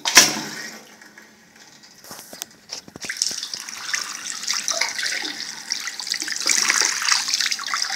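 A sharp knock, then a few clicks, then water running and splashing, building up from about three seconds in.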